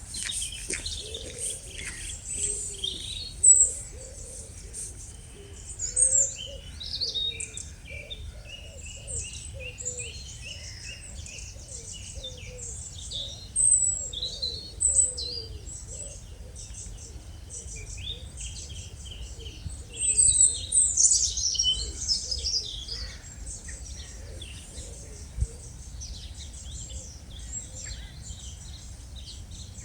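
Small wild birds singing and calling: a busy mix of high chirps and trills, loudest about six seconds in and again around twenty seconds, over a steady low rumble.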